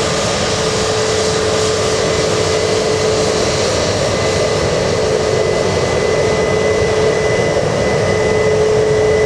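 Jet airliner's engines running loud and steady, a rushing noise with a held whine over it, growing a little louder near the end.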